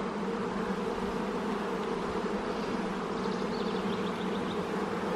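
Honeybees buzzing around an opened hive: a steady, even hum.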